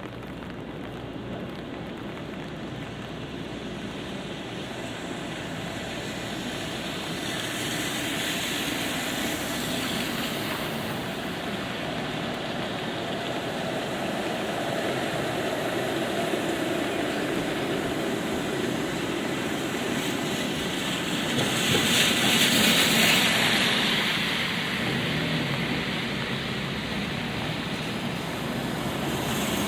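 Light rain over city street traffic: vehicles passing on wet pavement with tyre hiss, building slowly, with the loudest pass about three-quarters of the way through.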